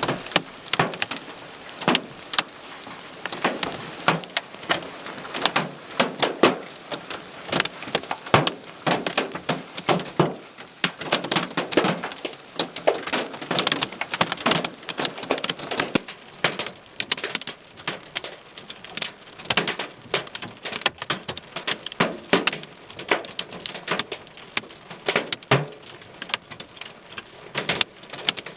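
Hailstones striking a hard surface in a dense, irregular clatter of sharp hits, some much louder than others.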